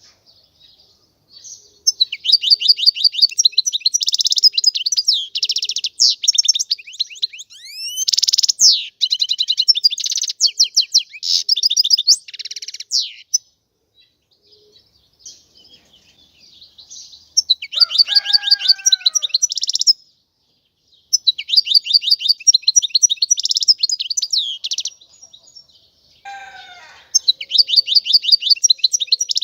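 European goldfinch singing: fast, tinkling twittering phrases of quickly repeated high notes. It comes in four long bouts with short pauses between them.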